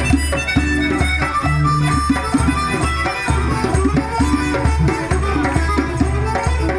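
Live afropop band playing, many instruments together over a steady pulsing bass line.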